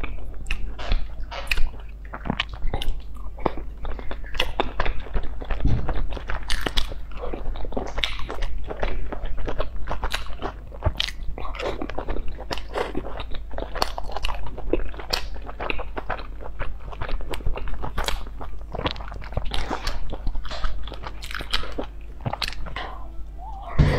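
Close-miked eating: a steady run of chewing, crunchy bites and wet mouth clicks as pieces from a spicy stew of salmon, lotus root and vegetables are chewed, over a low steady hum.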